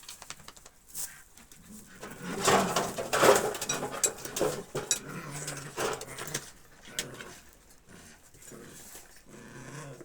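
Wolf making a series of harsh, irregular vocal bursts, loudest from about two to six seconds in, then quieter rough sounds.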